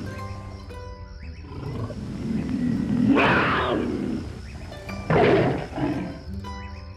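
A large animal's loud, harsh calls, one about three seconds in and another about five seconds in with a shorter one after it, over steady background music.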